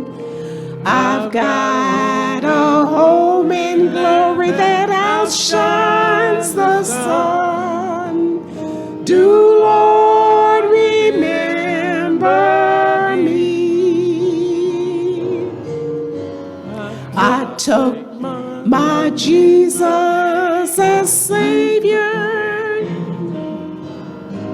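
A vocal quartet singing a gospel song with instrumental accompaniment, holding long notes with vibrato.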